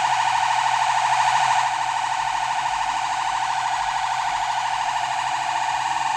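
Modular synthesizer tone: a saw-wave oscillator frequency-modulated by a triangle wave from a second oscillator, held on one steady pitch with a fast, rough wobble. It drops slightly in level about a second and a half in.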